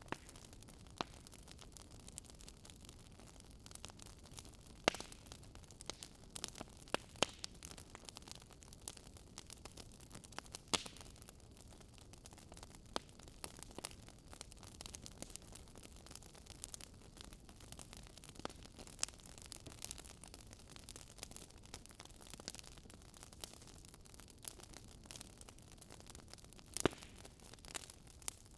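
Wood fire crackling in a fireplace: a faint steady hiss with irregular sharp pops and snaps, a few of them louder.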